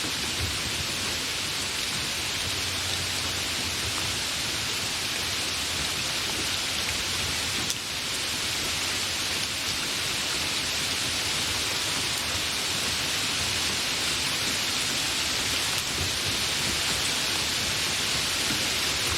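Steady, fairly heavy rain falling without thunder, an even unbroken hiss.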